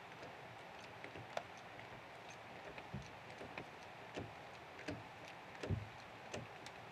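Irregular knocks and light taps of hand work on timber, about a dozen, unevenly spaced, with the loudest and deepest knock near the end.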